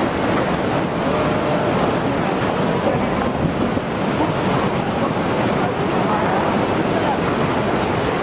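Floodwater surging through a town: a steady, unbroken rush of churning water.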